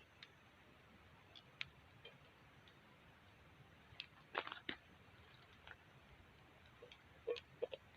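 Near silence with a few faint, scattered clicks and pops, a small cluster of them about halfway through and another near the end.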